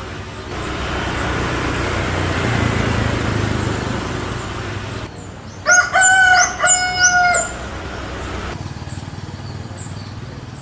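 A passing vehicle's noise swells and fades over the first few seconds. Then a rooster crows once, loud, in about four segments lasting under two seconds.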